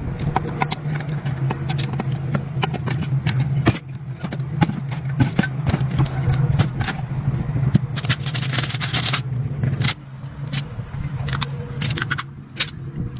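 Metal parts clinking, knocking and scraping during hand repair work, over a steady low hum. A brief hiss comes about eight seconds in.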